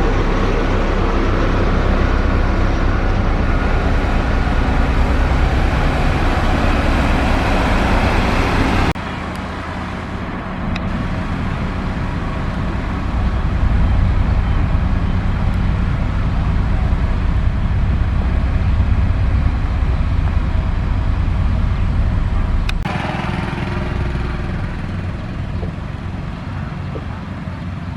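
Diesel engines of heavy road-construction machinery running steadily with a deep throb. The sound changes abruptly about nine seconds in and again near the end.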